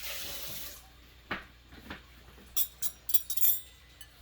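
Kitchen utensils on cookware: a short hiss at first, then a couple of knocks and a quick run of sharp metallic clinks around the middle.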